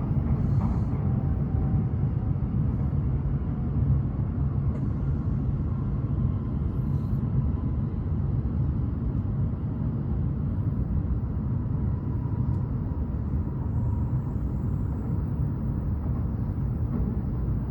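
Steady low rumble of a Hokuriku Shinkansen train running, heard from inside the passenger cabin.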